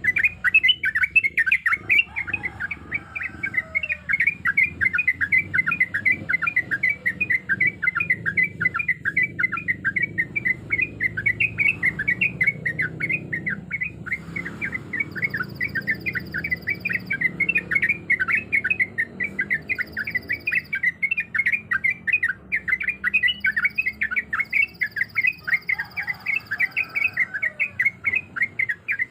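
Yellow-vented bulbul (trucuk) singing a long, fast run of short repeated chattering notes without a break. In the second half a faint, steady high-pitched whine comes and goes several times.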